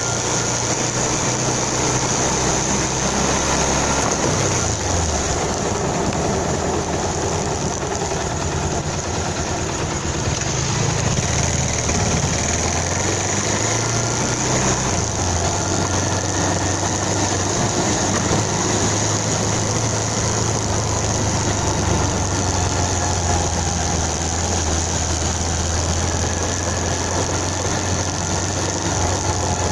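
Motorcycle engine running steadily, its low note shifting in pitch a few seconds in and again about halfway through, then holding steady.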